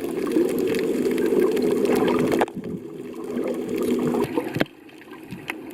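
Muffled sea water sloshing and rushing, breaking off abruptly about two and a half seconds in and again near the end.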